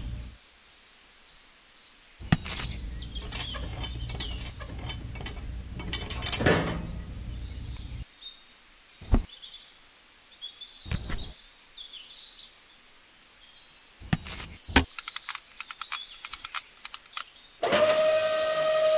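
Small clicks and scrapes of metal parts and springs being fitted to a DIY mini tractor, with birds chirping in the background. Near the end the mini tractor starts running with a loud, steady whine that has many overtones.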